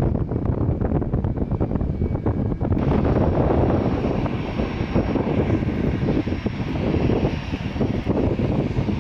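Airliner engine noise with wind buffeting the microphone; about three seconds in, a higher hiss joins the rumble and holds steady.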